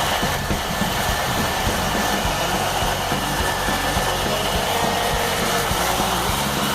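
O gauge model train running along its track up close, a steady whirring of motor and wheels with a few faint steady tones.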